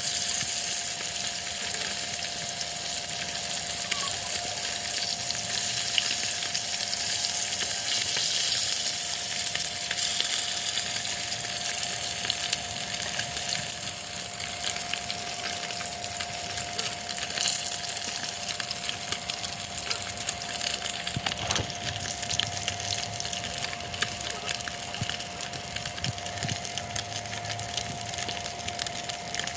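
Steady rain falling, an even hiss of many fine drop patters, with a faint steady high tone running underneath.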